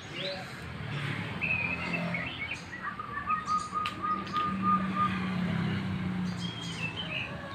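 Small birds chirping and calling, with short chirps and a longer even trill in the middle, over a low steady hum.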